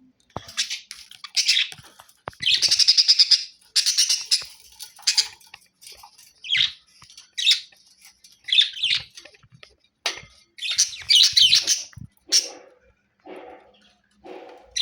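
Budgerigars chirping and warbling in a quick run of short bursts, with a few lower, shorter sounds near the end.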